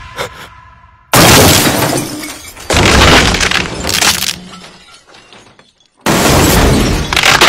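A car crashing with glass shattering: three sudden loud impacts, about a second in, near three seconds and at six seconds, each dying away.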